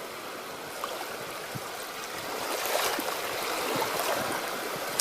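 Shallow Baltic Sea water washing at the shoreline: a steady hiss of small waves that swells a little partway through.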